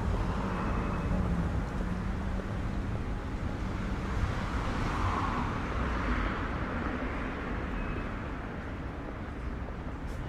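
Street traffic: motor vehicles running and passing on the road, with a low engine hum that fades after about two seconds and a car swelling past midway.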